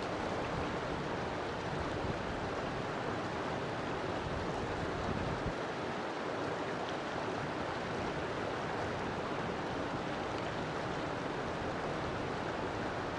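River water flowing steadily, an even rushing noise without pauses or changes.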